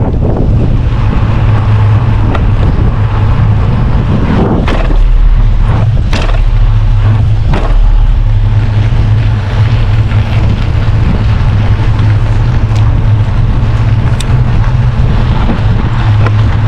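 Wind rumbling steadily on the microphone while cycling, with riding noise and a few sharp knocks from about five to eight seconds in.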